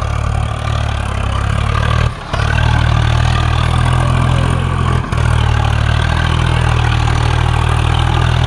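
Swaraj 744 FE tractor's three-cylinder diesel engine running steadily and loudly under load while pulling a trolley through mud. There are two short breaks in the sound, about two seconds in and again about five seconds in.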